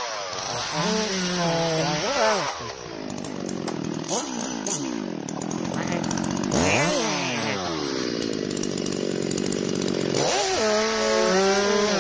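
Chainsaw engine running and revving up and down repeatedly, with sharp rises and falls in pitch as it works.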